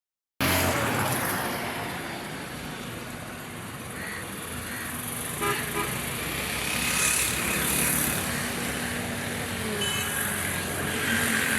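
Massey Ferguson 135 tractor engine running steadily, with a couple of brief clicks about halfway through.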